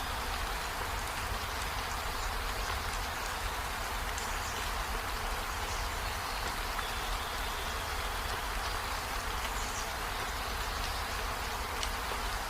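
Steady rain falling: an even hiss with faint scattered drop ticks, over a low rumble.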